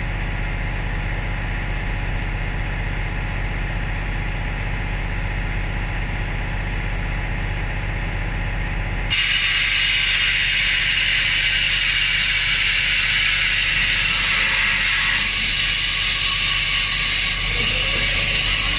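A steady low engine hum, then about halfway through a loud, steady hiss of compressed air starts abruptly and keeps going, as during a bus tyre change.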